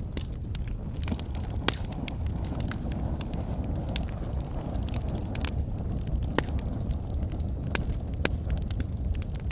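Wood fire burning in a fireplace: a steady low rumble of the flames with sharp, irregular crackles and pops from the logs, a few louder snaps scattered through.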